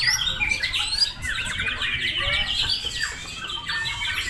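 Several caged songbirds singing at once: a dense, overlapping chorus of whistles, chirps and rapid trills with no pause.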